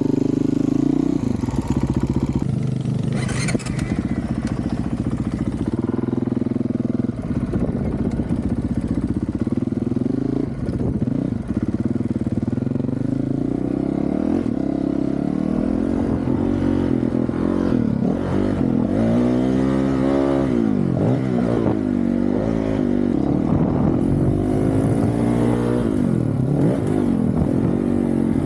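Honda CRF450RL dirt bike's single-cylinder four-stroke engine, through a full titanium Yoshimura RS-4 exhaust, being ridden hard. Revs repeatedly rise and fall as the rider opens and closes the throttle.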